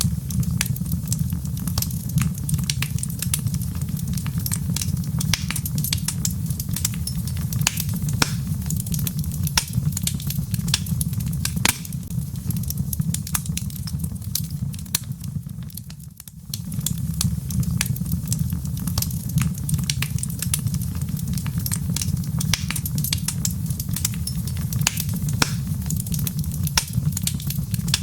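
Log fire crackling, with many sharp pops and snaps over a steady low rumble of flames. Near the middle the sound dips out briefly and fades back in.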